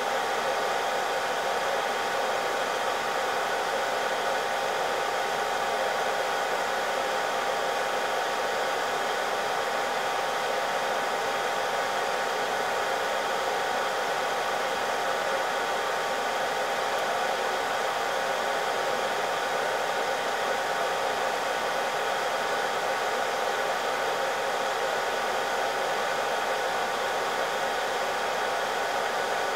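Hot air gun blowing steadily, a rushing hiss with a steady whine through it, as used to reflow a laptop's graphics chip.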